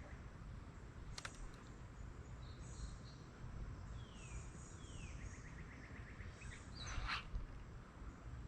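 Songbird singing faintly: two quick descending notes, then a rapid run of repeated notes, over a steady low outdoor background. Two brief clicks come about a second in and near the end.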